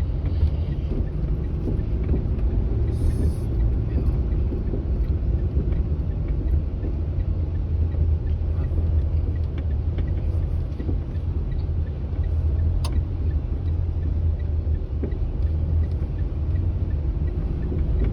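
A manual-transmission car running steadily as it is driven, a constant low rumble of engine and road noise.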